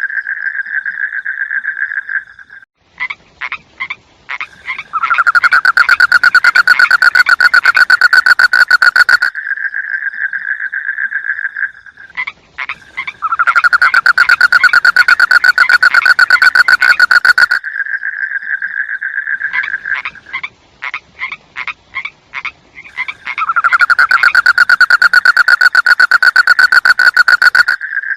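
Frog calling in a rapid pulsed trill: loud stretches of several seconds alternate with softer trilling and short runs of separate clicks. The same cycle repeats about every nine seconds.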